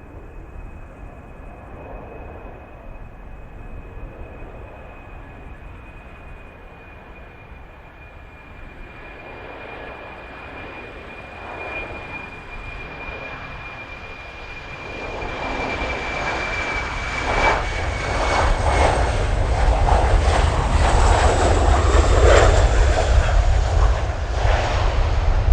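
Boeing 737 jet engines on approach: a high whine that slowly falls in pitch and fades about two-thirds in, under a deep engine roar with crackle that grows steadily louder and peaks near the end as the airliner passes close.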